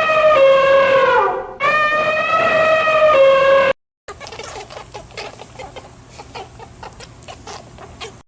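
Two long, loud animal calls, each held on a steady pitch before dropping at the end. After a short gap comes a fainter, scratchy run of quick clicks over a low hum.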